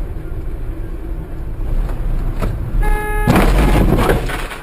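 Vehicle engine and road rumble on a dashcam, broken about three seconds in by a short horn blast and then a loud noisy burst lasting about a second, typical of a collision.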